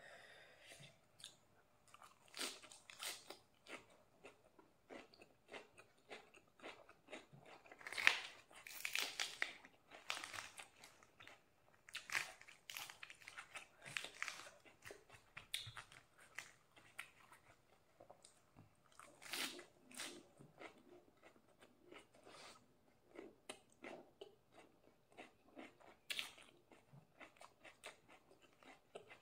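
Close-up crunching and chewing of raw lettuce and cucumber, crisp bites coming in irregular bunches, loudest about eight seconds in.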